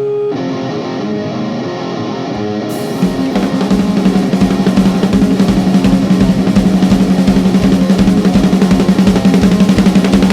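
Live rock band playing loud, kicking in fully about three seconds in: a drum kit beating rapidly under a held low guitar or bass note.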